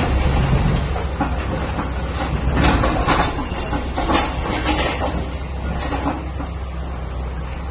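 A heavy engine running with a steady low rumble, with irregular clatter and knocks over it, loudest about three to five seconds in.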